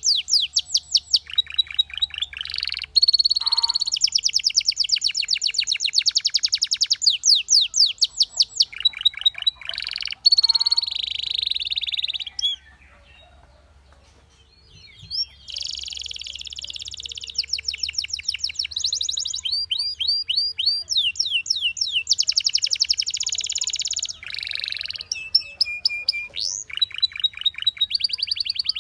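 Canary singing: fast trills of rapidly repeated high notes that switch to a new phrase every second or two, with some sweeping whistled notes. The song breaks off for about two seconds midway, then resumes.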